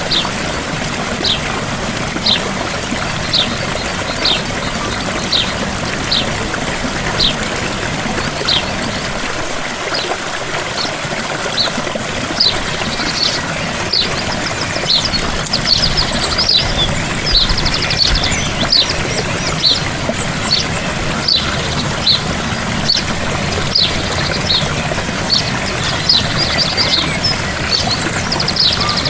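Gentle waterfall running steadily, with a bird giving a short, high, falling chirp about once a second; from about halfway, more birdsong with quick trills joins in.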